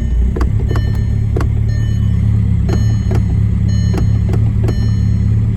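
Volkswagen 1.9 TDI (BEW) four-cylinder diesel running at a steady idle just after a cold start, with a few irregular sharp clicks over the engine note.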